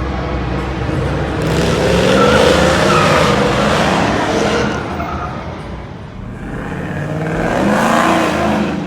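Truck engine revving hard in two long surges, with tire squeal, as in a burnout.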